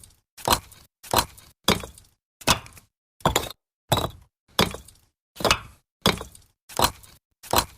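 Bricks being stacked, brick set down on brick: a hard knock about every two-thirds of a second, each with a short fading tail, about a dozen in a row.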